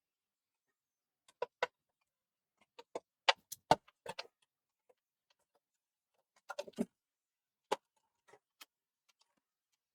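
Scattered small clicks and knocks of hand tools and plastic and metal console parts being handled while a PlayStation 4 Slim is taken apart. A pair of clicks comes about a second and a half in, a busier run of louder knocks around three to four seconds, another cluster near seven seconds, then a few fainter taps.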